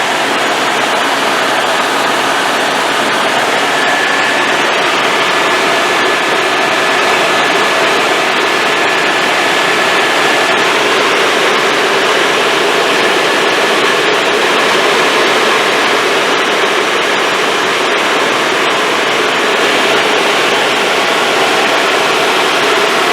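Helicopter in flight heard from inside the cabin: a loud, steady drone of turbine and rotor noise, with a faint high whine that fades out about halfway through.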